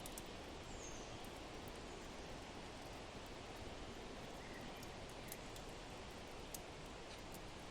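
Steady rush of wind with small sparse crackles of a fire, the crackles coming irregularly every second or so.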